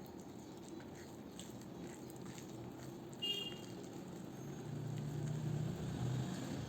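Eating sounds: faint chewing and small mouth and hand clicks over a steady low background hum. A brief high squeak comes about three seconds in, and a louder low hum swells in the second half.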